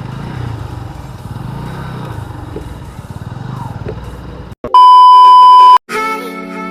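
Kawasaki Bajaj CT150's single-cylinder engine running on the move, with road and wind noise, until it cuts off abruptly after about four and a half seconds. A loud steady beep tone follows for about a second, then music starts near the end.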